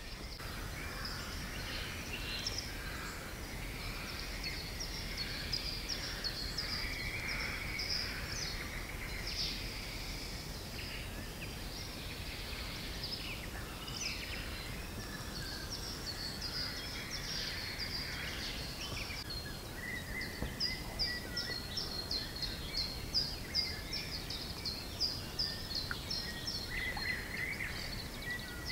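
Several songbirds singing, a mix of short high chirps and warbling phrases, with a quick series of repeated high notes about two-thirds of the way through, over a faint steady low noise.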